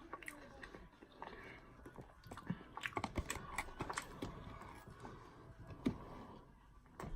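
Close-up mouth sounds of someone chewing food: a run of small, quick clicks and smacks, densest in the middle, with one sharper click near the end.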